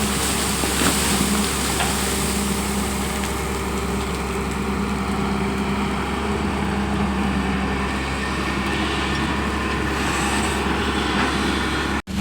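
Long-boom excavator's diesel engine running steadily, cutting out abruptly just before the end.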